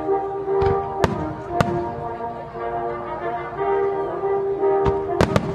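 Music with long held notes plays under aerial fireworks bursting: a scattering of sharp bangs, a few in the first two seconds and three in quick succession near the end.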